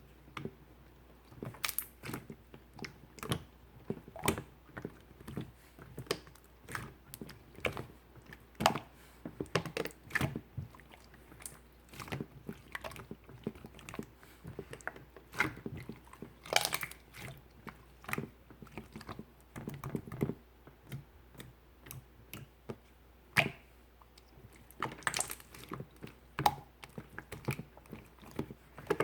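Clear slime being squished, stretched and pressed by hands, giving irregular wet clicks and sticky pops, about one or two a second.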